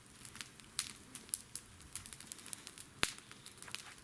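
Faint, irregular small clicks and crinkles of a fireworks box and its packaging being handled, with one sharper click about three seconds in.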